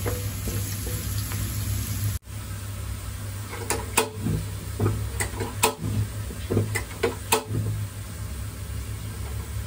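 Chopped garlic, ginger and green chili sizzling in hot oil in a nonstick wok over a low steady hum. A wooden spatula stirs them, scraping and knocking against the pan several times in the middle.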